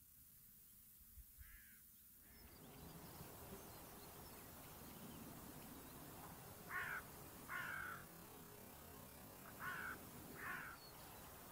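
A bird calling four times, short calls in two pairs, the first pair about seven seconds in and the second about ten seconds in, over a faint outdoor background that comes up about two seconds in.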